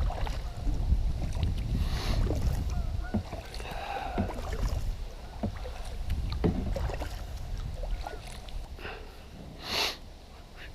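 Kayak paddling: paddle strokes dipping in the water with scattered small splashes and clicks, over a low rumble of wind on the microphone. A short louder rush of noise comes near the end.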